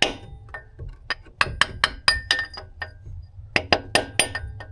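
Small sledgehammer tapping a new transmission axle (output shaft) seal into its bore: light, ringing metal-on-metal strikes in two quick runs of about five or six a second, with a short pause between them, to make sure the seal is seated all the way.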